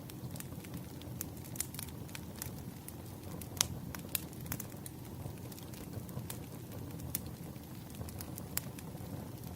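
Burning firewood crackling: irregular sharp pops and snaps, the loudest about three and a half and four seconds in, over a steady low rumble of the fire.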